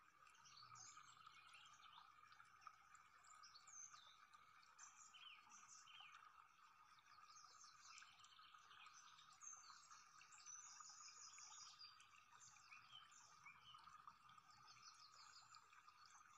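Near silence, with faint scattered bird chirps and trills over a steady faint background hiss.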